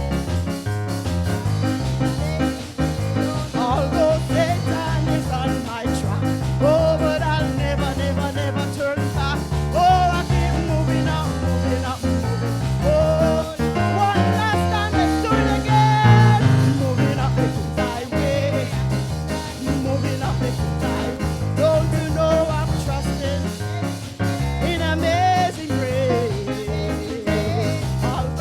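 Upbeat live praise-and-worship music with a steady rhythmic beat and singing.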